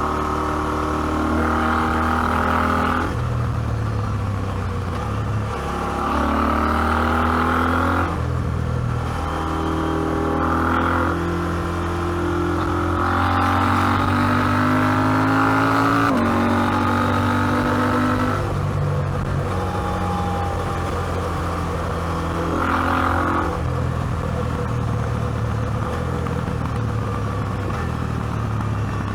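KTM 790 Adventure's parallel-twin engine pulling hard under throttle: its note rises steadily, then falls away sharply, again and again about every three to five seconds as the gears change.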